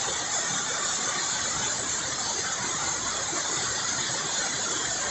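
Waterfall in spate heard close at its foot: a heavy, steady rush of falling water.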